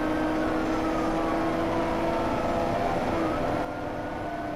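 Police siren wailing, its pitch slowly falling and then rising again, over the steady drone of a patrol car's engine and road noise at speed. The sound drops a little in loudness near the end.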